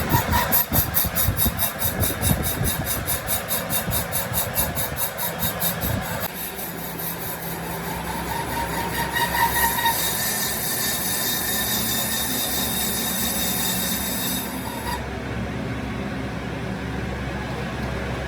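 Metalworking machine noise: a rapid rhythmic rasping, about five strokes a second, for the first six seconds, then a steadier running noise with a faint high whine; the highest part drops away about fifteen seconds in.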